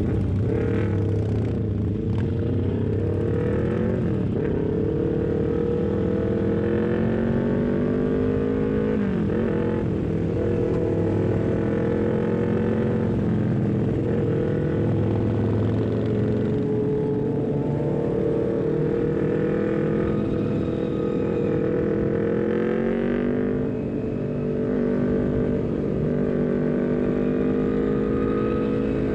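Honda CBR250RR parallel-twin engine running through an aftermarket R9 header and short Leovince GP Corsa carbon silencer while being ridden, its pitch rising and falling several times with throttle and gear changes.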